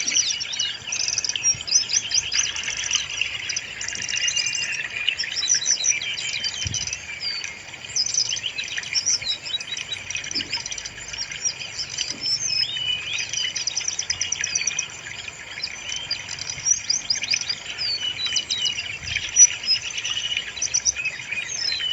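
Brown-chested jungle flycatcher singing a continuous run of high chirps and rapid trills, one phrase after another without a break.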